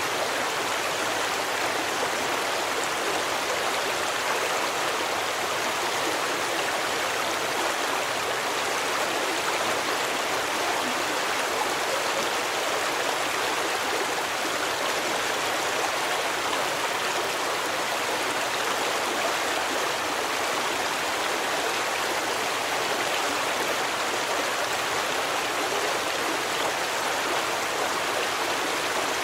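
Stream water rushing over rocks, a steady, even hiss with no breaks.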